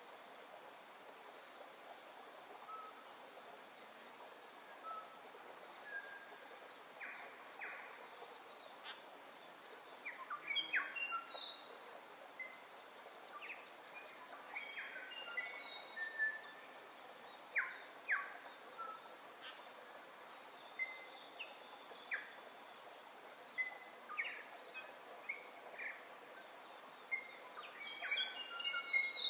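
Several birds chirping and whistling in short calls over a steady hiss, the calls sparse at first and coming thicker from about a third of the way in, busiest near the end.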